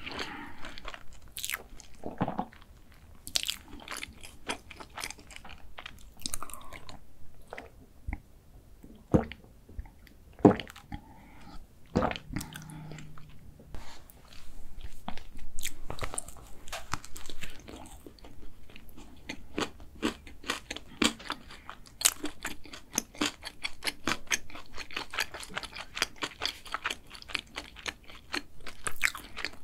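Close-miked ASMR eating sounds: a person biting into and chewing a cream-filled chocolate cake coated in chocolate chips, with crunches and sharp, wet mouth clicks throughout.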